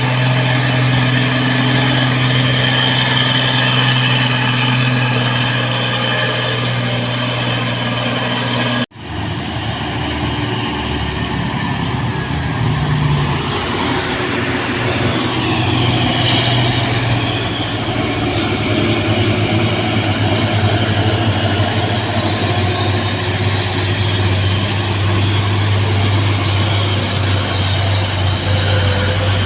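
Heavy truck's diesel engine running steadily. About nine seconds in the sound cuts out for a moment, then carries on.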